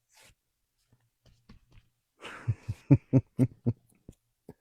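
Light knocks and rubbing from a painted wooden craft piece being worked by hand on a table, the kind of sound sanding it to distress the paint makes. Past the middle comes a quick run of about six sharp knocks in a second and a half, the first with a soft scratchy rub.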